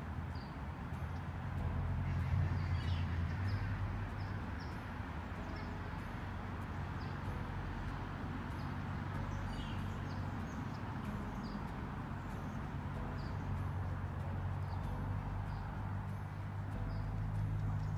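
A small bird calling over and over with short, high chirps about once a second, above a steady low rumble of outdoor background noise.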